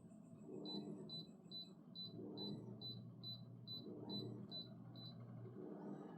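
Faint, regular high-pitched ticking, about two and a half ticks a second, over a low hum; the ticking stops shortly before the end.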